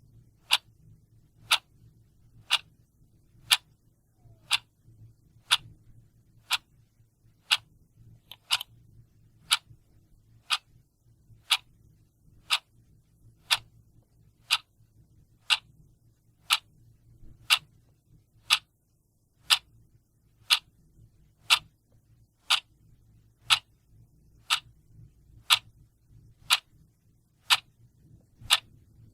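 A mechanical clock ticking steadily, about one tick a second, each tick a sharp, crisp click.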